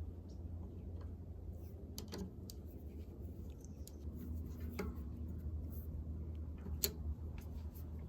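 A few light clicks and taps from tools and bike parts being handled, over a steady low hum.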